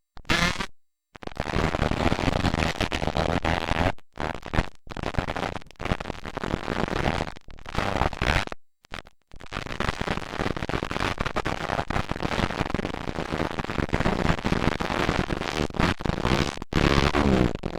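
Motocross dirt bike engines running hard, loud and distorted, cut off completely several times for a fraction of a second.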